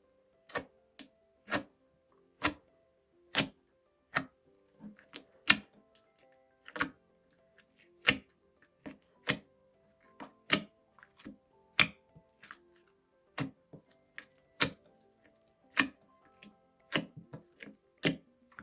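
Slime squeezed in a plastic zipper bag and popping, giving sharp wet pops and clicks, about one a second at first and then in quicker clusters. Soft background music plays underneath.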